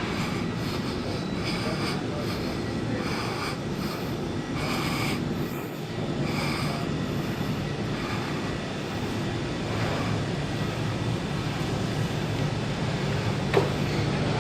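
Train running steadily, a low rumble with short brighter bursts in the first half and one sharp click near the end.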